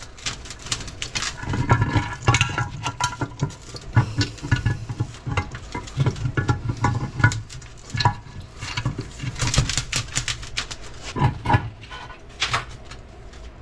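Transfer case parts being handled on the bench: irregular metal clicks, taps and light knocks, with a few sharper knocks near the end.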